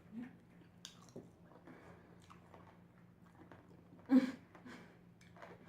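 Close-up chewing and biting of food, with small wet mouth clicks, as someone eats a mukbang meal of barbecue chicken. A short voiced sound comes about four seconds in.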